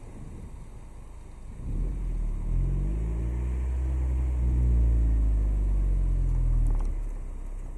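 Car engine accelerating: it swells in about two seconds in, climbs in pitch, then eases off and fades near the end, over a low wind rumble on an outside-mounted camera's microphone.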